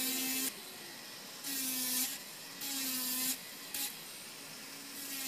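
Electric nail drill filing gel nails, its bit grinding on the nail in short passes of about half a second to a second, roughly one a second, each a harsh hiss over a low motor hum. The handpiece's built-in dust extraction is switched off.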